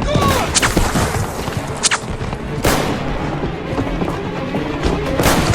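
Battle sound effects of a WWI trench fight: a few sharp gunshots and explosion blasts, the biggest near the end, over a dense rumbling battle din and background music.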